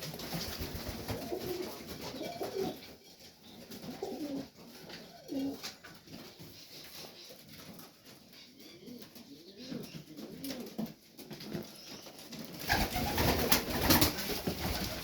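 Domestic pigeons (young highflyers and Tipplers) cooing in a loft, with short repeated coos. Near the end a louder rustling, scuffling noise comes in over them.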